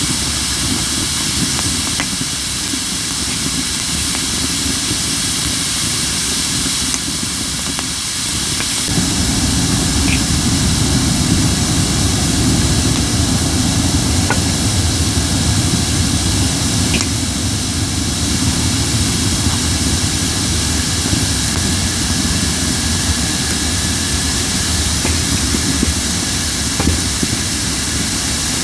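Crape myrtle wood burning on a fire disk with a strong steady hiss and only a few small pops, the sign of moisture still in the wood boiling out. A low rumble joins about a third of the way in and continues.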